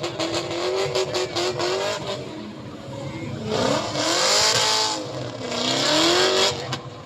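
A car engine running with a rapid crackle, then revved hard twice, its pitch rising and falling each time with a loud rushing hiss.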